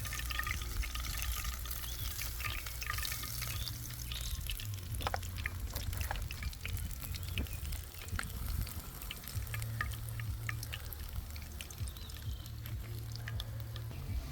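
Fish frying in hot oil: a steady sizzle dotted with small crackling pops, over a low steady rumble.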